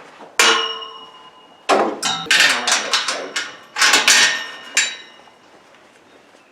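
Metal gate clanking and rattling: one loud ringing clank about half a second in, then a quick series of clanks over the next few seconds.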